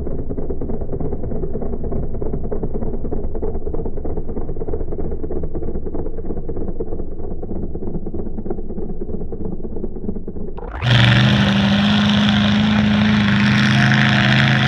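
Monster truck engine idling with a low, rapidly pulsing rumble. About eleven seconds in it jumps to a much louder, steady high-revving run.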